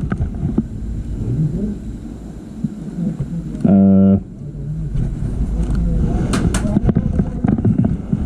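Low rumble of wind on the microphone with scattered clicks and knocks, broken about four seconds in by a loud, half-second low buzzing tone that starts and stops abruptly.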